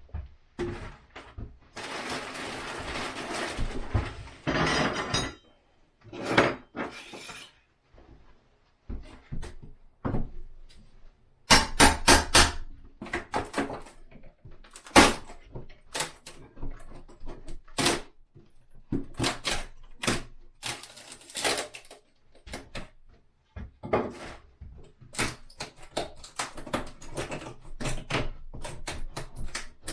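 Irregular knocks, thunks and scraping from work on an old window frame as it is taken out, with a quick run of strikes about twelve seconds in.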